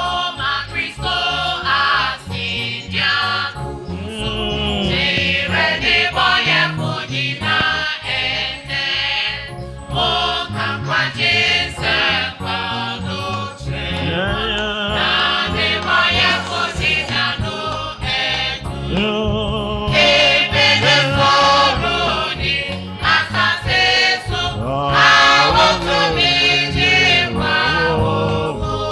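Gospel music: choir singing over a steady beat.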